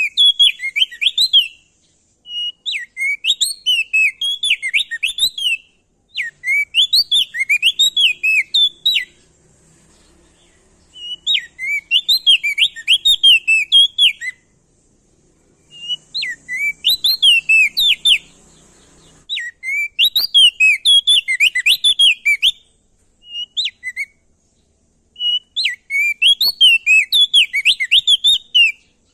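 Male opior jambul (prenjak daun) singing loudly in repeated phrases of fast, rising and falling whistled notes. Each phrase lasts two to three seconds, with short pauses between them.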